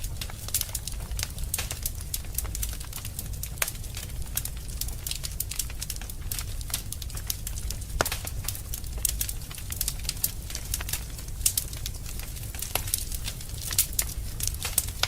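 Wood fire burning in a fireplace, crackling with a quick irregular patter of small snaps and an occasional louder pop, over a low steady rumble.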